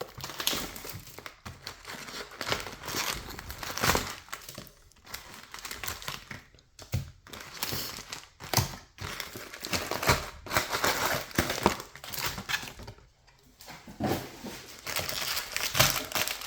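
Trading-card pack wrappers crinkling, with cards being handled and shuffled in a jumbo box break, in irregular rustles and sharp crackles.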